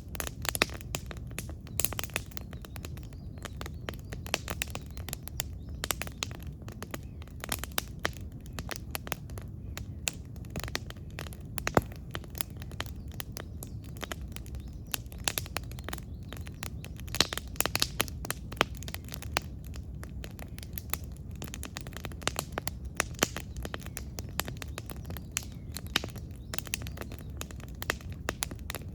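Wood campfire burning, with irregular crackles and sharp pops from the burning wood over a low steady rumble of the flames.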